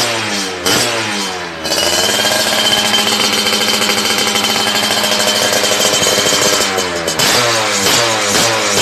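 Yamaha F1ZR's 110 cc single-cylinder two-stroke engine revved through a racing exhaust: a few quick throttle blips, then held at high revs for about five seconds, then quick blips again near the end.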